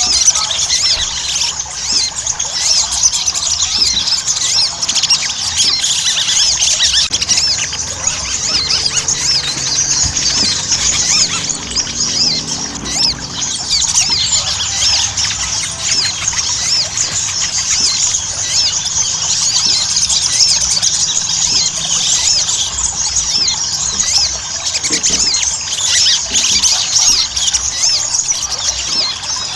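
Little spiderhunter (sogon) singing in full voice: a continuous stream of rapid, high-pitched squeaky chirps without a break.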